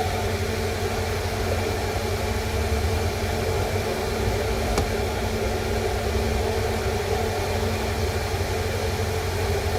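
Steady low hum and hiss of background noise, with one faint click a little before the middle.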